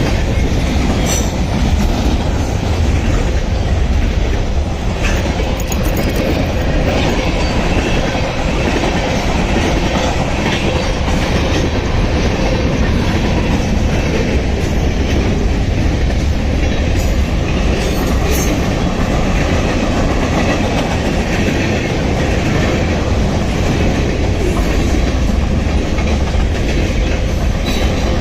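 Freight train passing close by: a steady, loud rumble of cars rolling on the rails, with a few faint clicks over the joints.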